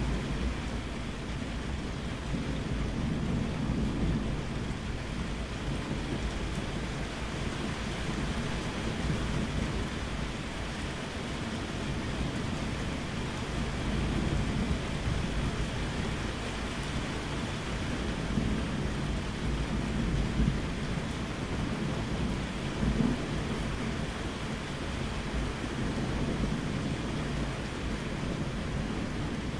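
Steady rain with rolling thunder: a continuous hiss of rainfall over a low rumble that swells and eases several times, with no sharp cracks.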